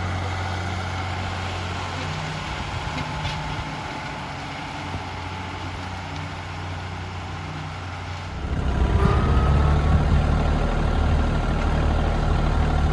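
Heavy pulling-vehicle engine idling with a low, steady hum, then revving up and running much louder about eight and a half seconds in.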